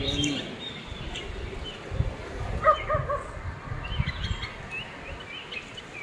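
Short bird chirps: a quick run of calls about halfway through, followed by a few higher notes, over dull low thuds.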